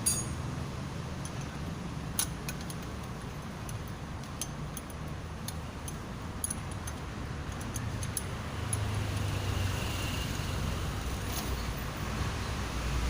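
Scattered light metallic clinks of tools and engine parts being handled, a few seconds apart, over a low steady background rumble.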